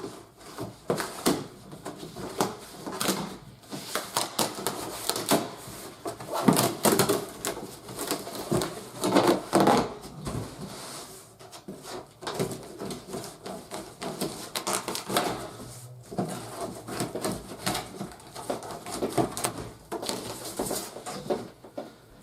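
A large cardboard toy box being unsealed and handled, with irregular rustling, scraping and knocks. The handling is busiest about a third of the way in.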